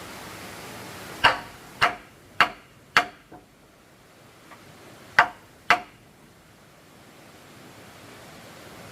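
Six hammer blows: four about half a second apart, a pause, then two more, over a steady background hiss.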